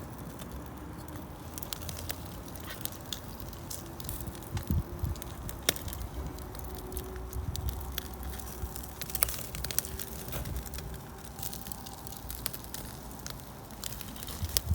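Wood fire crackling in a homemade stove, with irregular sharp pops over a low steady rumble.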